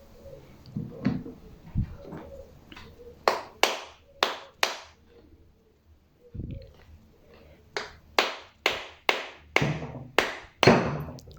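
Sharp tapping knocks on a small AC gear motor to drive its rotor out of the housing: four quick taps about three seconds in, then a run of about nine, two to three a second, toward the end.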